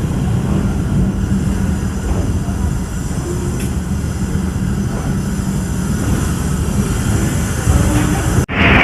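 Steady low rumble of a Pakistan Express train. Near the end it cuts out abruptly and a louder, brighter rushing noise takes over.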